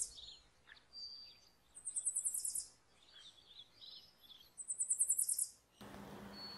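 Birds singing in a morning recording: a high, rapid trill that falls in pitch, repeated about every three seconds, with softer chirps in between. About a second before the end a steady hiss comes in under the birdsong.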